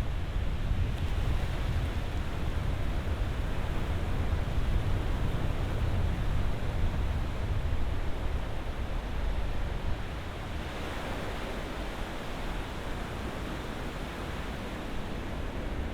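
Ocean surf: a continuous rush of breaking waves with a deep low rumble. About ten seconds in the rumble eases and a brighter hiss of washing water rises.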